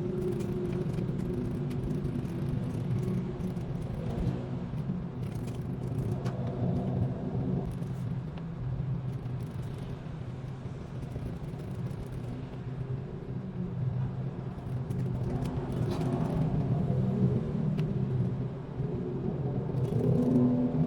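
A low, steady rumble with a few faint clicks scattered through it.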